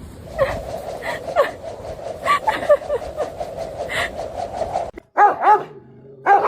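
A dog barking: two quick barks about five seconds in and another near the end, after a stretch of steady background noise.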